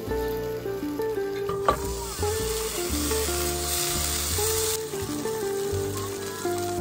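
Beef patty sizzling in hot oil in a frying pan. A sharp clack comes just before it, and the sizzle stops suddenly after about three seconds. A soft background melody plays throughout.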